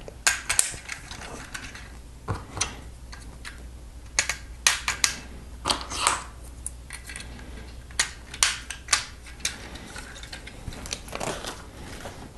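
Plastic Lego pieces clicking and rattling as they are handled and pressed together, in irregular sharp clicks.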